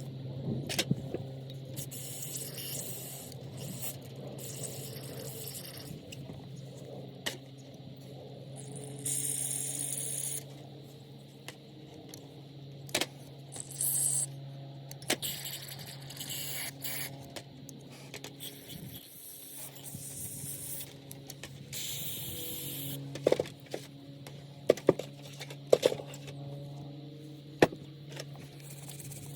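Small metal parts clicking and scraping during a carburetor cleaning, with short bursts of hiss such as a spray can gives and a steady low hum underneath; a run of sharp clicks comes near the end.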